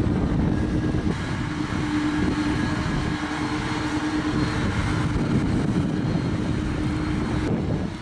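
Tractor engine running steadily, with a steady hum through the engine noise.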